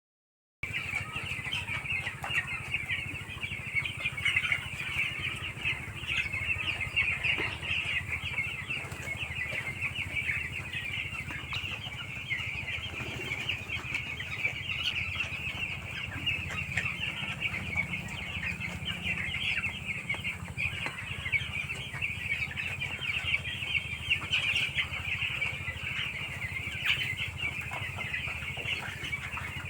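A large flock of 11-day-old chicks peeping continuously, many overlapping high chirps, over a steady low hum.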